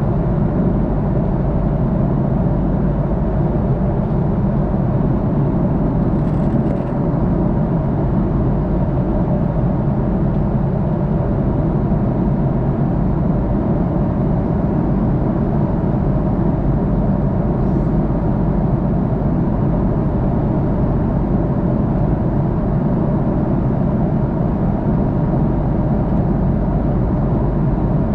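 Steady cabin drone inside an Airbus A330-300 airliner, a constant low rumble of engines and airflow with a faint hum, heard from a window seat.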